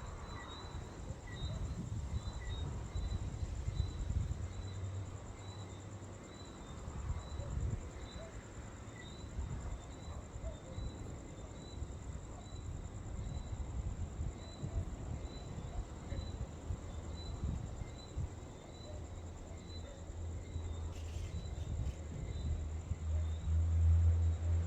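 Insects chirping: a steady high trill with a fainter chirp repeating about one and a half times a second, over a low irregular rumble. A low steady hum grows louder near the end.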